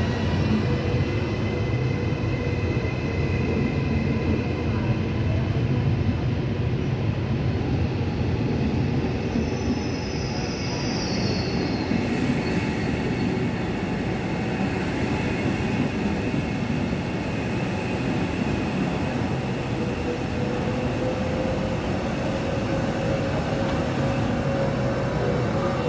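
Trenitalia Pop electric multiple unit running by at the platform: a steady rumble with held whining tones from its electric drive. A short high squeal, falling in pitch, comes about ten seconds in, and near the end a lower whine slowly rises in pitch.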